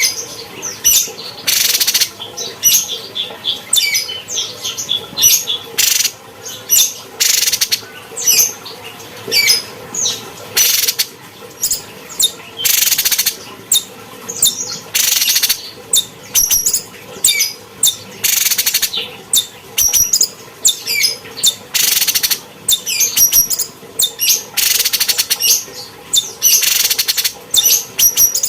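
Cucak cungkok songbird singing continuously: rapid high chirps and trills broken every couple of seconds by short harsh, raspy bursts.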